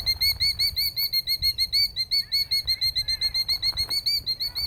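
A killdeer's rapid alarm calling: a fast, even run of short, high arched notes, about nine a second. This is the agitated call of a parent defending its nest.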